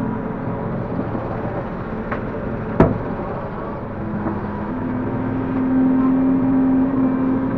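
Link-Belt 145X3E hydraulic excavator's diesel engine running steadily while working, with its pitch rising and holding from about halfway through. A single sharp knock a little under three seconds in, with a fainter one just before it.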